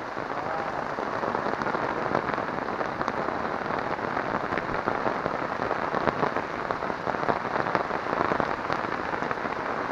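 Steady rain falling, with a dense spread of small drop hits.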